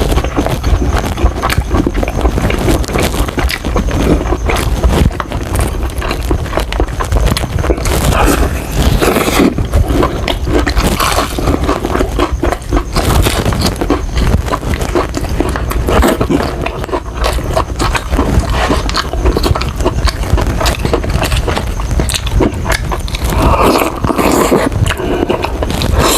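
Close-miked chewing and crunching of crispy fried chicken, with dense irregular crackles and wet mouth sounds throughout.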